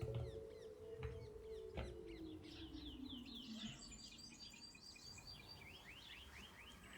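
Birds chirping in quick repeated short calls, with three light sharp knocks in the first two seconds and a long low tone that slowly falls in pitch and fades about halfway through.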